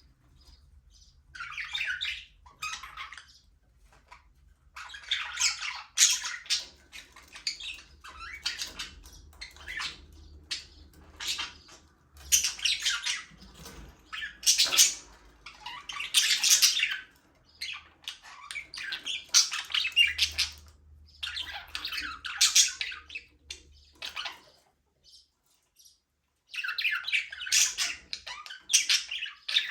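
Several budgerigars chirping and chattering in bursts, with a gap of about two seconds near the end before the calls resume.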